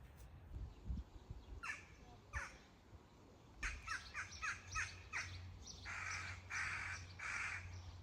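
A bird's harsh calls: two single calls, then a quick run of about six short falling calls, then three longer harsh calls.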